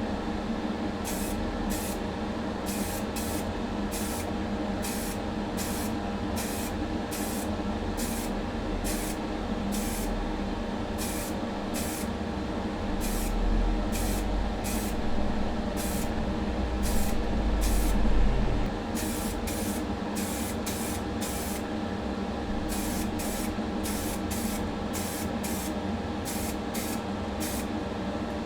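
Primer being sprayed onto the stripped die-cast parts of a model van in short, repeated bursts of hissing, over the steady hum of a running motor. A louder low rumble comes and goes about halfway through.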